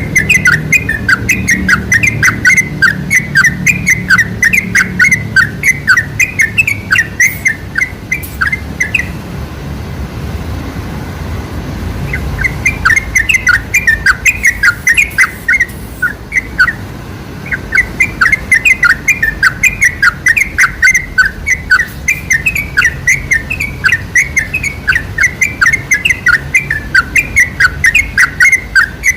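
Yellow-vented bulbul (trucuk) song: fast, continuous chattering of short bubbly notes, several a second. It breaks off twice, for about three seconds near the one-third mark and briefly a little after the middle. This is a lure recording played to set caged bulbuls singing.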